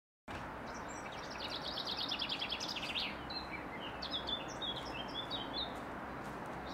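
Outdoor birdsong over a steady background hiss: a fast trill of rapidly repeated high notes for the first few seconds, then scattered short chirps.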